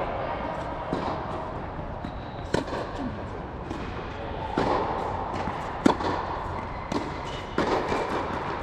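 Tennis balls struck by racquets in a drill: sharp pops at irregular intervals of about a second, with ball bounces among them.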